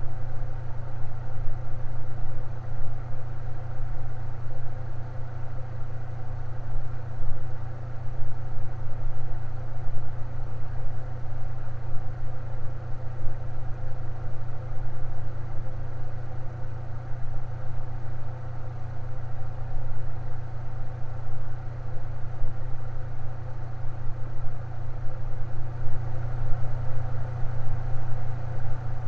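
Fan running steadily, a constant low hum with fainter higher tones above it.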